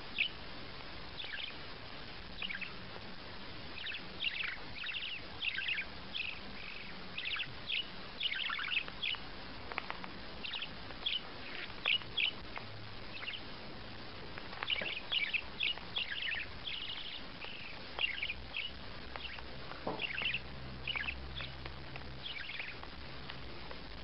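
A small bird chirping over and over in short, high calls, most sliding down in pitch, coming in irregular clusters.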